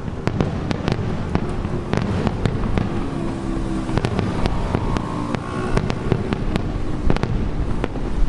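Fireworks display: many sharp cracks of bursting shells, one after another, over a continuous low rumble that echoes off the mountain behind.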